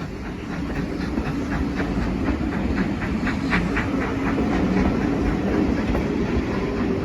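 A train running along the track with a rhythmic clatter of about four beats a second over a steady low rumble, slowly growing louder.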